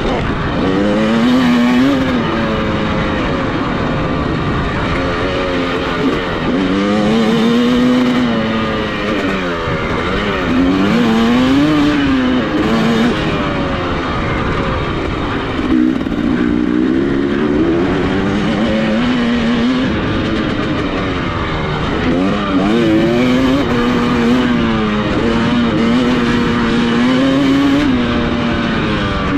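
Dirt bike engine ridden hard, revving up and dropping back every couple of seconds as the throttle opens and closes.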